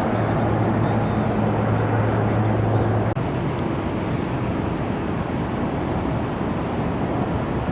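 Jet airliner engine noise: a steady rushing sound with a low hum under it that stops about three seconds in.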